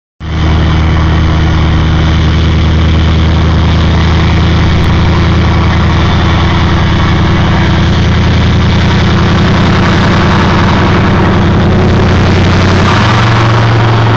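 Ford 6.4 Power Stroke V8 turbodiesel idling steadily, its turbocharger whistling over the engine's low drone.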